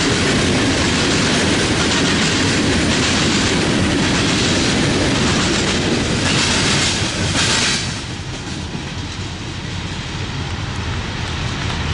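Freight train cars rolling past, with steel wheels clicking over the rail joints. The sound drops off markedly about eight seconds in.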